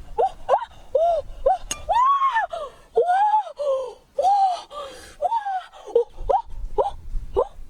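An animal's repeated whining cries, each rising and falling in pitch, about two a second, with a few longer drawn-out ones among them.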